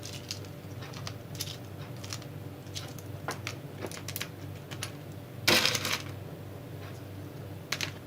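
Small hard objects being handled at a work table: scattered light clicks and knocks, with one louder scrape lasting about half a second, five and a half seconds in.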